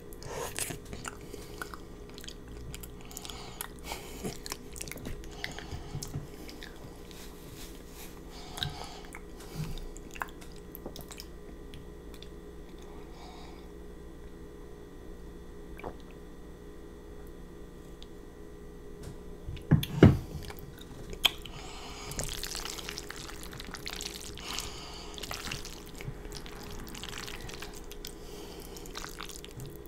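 Close-miked wet chewing and lip-smacking of creamy fettuccine noodles. There is a quieter stretch midway while a glass of water is drunk, then a loud sharp knock, then more moist chewing.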